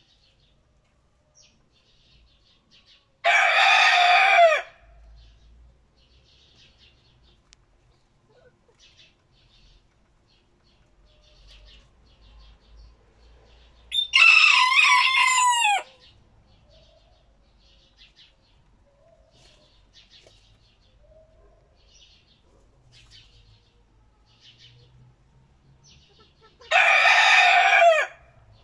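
İspenç roosters crowing: three loud crows of about a second and a half each, roughly eleven seconds apart. Faint chirping of small birds runs between the crows.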